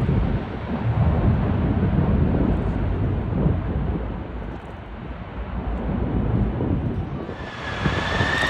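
Strong wind buffeting the microphone with an uneven low rumble. About seven seconds in, a jet airliner's engine noise swells, carrying a high whine that drifts slightly down in pitch as the aircraft approaches.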